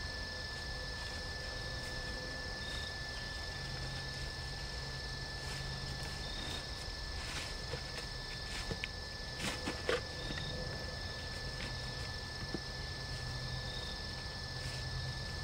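Steady insect trilling, crickets, with a short high chirp repeating about every two seconds. A few sharp clicks and rustles about two-thirds of the way in, from a camp stove being packed into a stuff sack.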